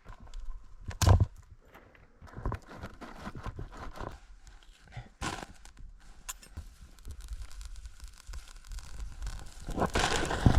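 Scattered rustling, crinkling and light knocks of close handling, with a thump about a second in and a louder burst of rustling near the end.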